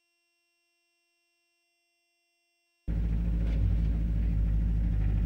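Silence for almost three seconds, then the Ford Escort Mk2's 2.0-litre Pinto four-cylinder engine cuts in abruptly, idling steadily as heard from inside the cabin.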